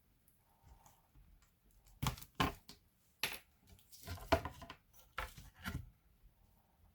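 Hand work on a laptop: a string of sharp clicks and small clatters of plastic and metal parts being handled and set down, about six or seven of them in the middle of the stretch, the loudest a little past the halfway point.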